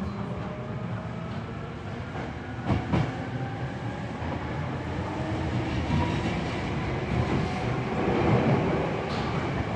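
Hankyu 7300-series electric train running, heard from the floor of the passenger car: a steady rumble with a motor and gear whine that rises in pitch. Wheels knock sharply over rail joints twice, about three seconds in.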